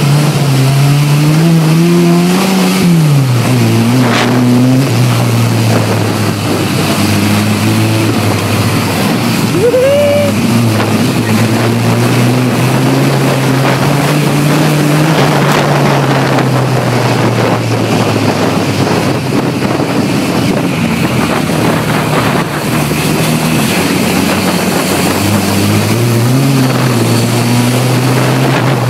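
Engine of a banger racing car running hard, heard from inside its stripped cabin, its pitch rising and falling with the throttle: the revs climb about two seconds in and drop back, hold fairly steady, then climb again near the end.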